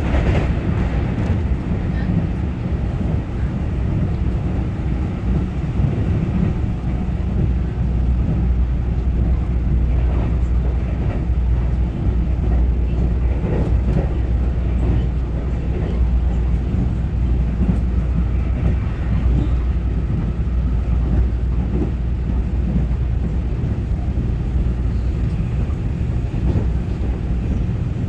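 Taiwan Railway EMU900-series electric multiple unit running at speed, heard from inside the carriage: a steady low rumble of wheels on rail, with a few faint knocks.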